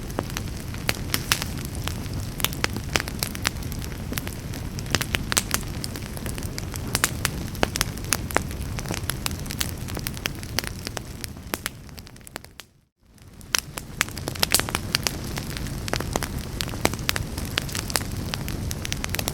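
Wood fire burning in a fireplace: dense, irregular crackling and popping over a steady low rumble. About two-thirds of the way through the sound fades out almost completely for a moment, then fades back in.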